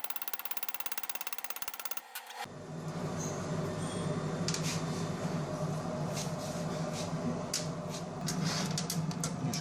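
Welding arc on an aluminium cylinder head: a rapid, even pulsing for about two seconds, then a steady buzz with irregular crackles.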